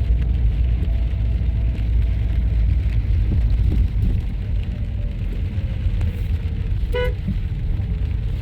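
Motor vehicle running with a steady low rumble of engine and road noise. A short horn beep sounds about seven seconds in.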